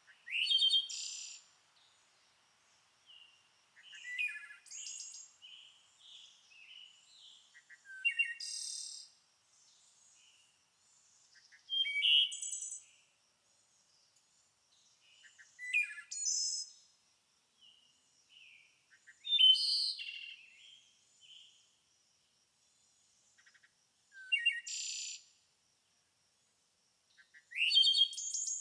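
A songbird singing short, bright song phrases about every four seconds, with softer chirps between them.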